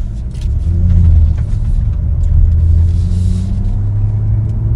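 2018 BMW M2's turbocharged straight-six engine running as the car drives, heard from inside the cabin as a steady low drone mixed with road noise.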